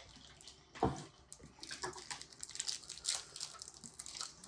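Plastic snack wrapper crinkling and tearing as it is opened, in many quick irregular crackles, with one sharp knock about a second in.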